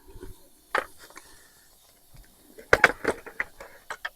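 A few sharp clicks and knocks, one about a second in and a quick cluster near three seconds in, from handling things while a campfire is being lit.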